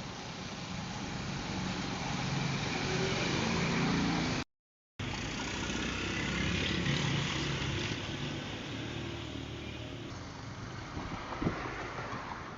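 Motor vehicle engine running with road and wind noise, the pitch swelling and easing, cut off by a half-second gap about 4.5 s in before a similar passage resumes.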